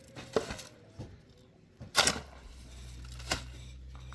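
Four separate sharp knocks or clatters of hard objects. A low steady hum starts about two seconds in.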